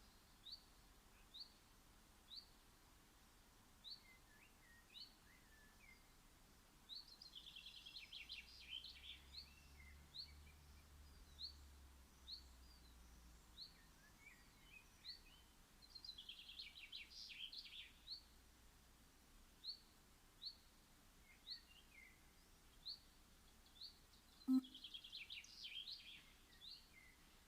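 Faint garden birdsong: short high chirps repeated about once a second, with three bursts of busier twittering song. A single sharp click about three-quarters of the way through is the loudest sound.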